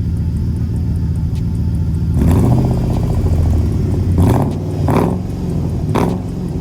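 Car engine idling, then revved in a few short blips from about two seconds in. The engine has a misfire that the owner puts down to the ignition coils.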